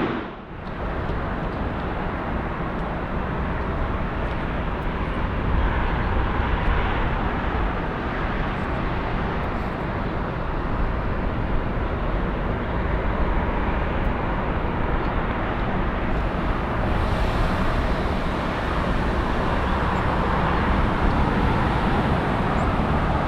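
Steady jet engine noise from an arriving Boeing 777 freighter, with its GE90 turbofans.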